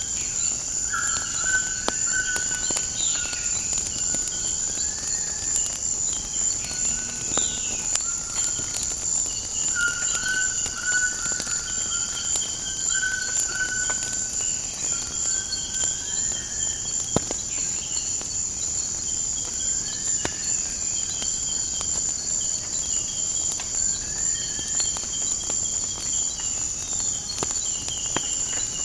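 A steady high-pitched insect chorus with birds calling over it again and again in short whistled notes and quick downward sweeps. Now and then a sharp pop of crackling firewood sounds.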